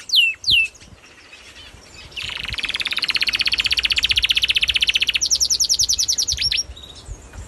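Small songbird singing. Two sharp down-slurred whistles come first, then a rapid trill of evenly repeated notes for about three seconds. The trill switches to a higher, faster one and ends with two more down-slurred notes.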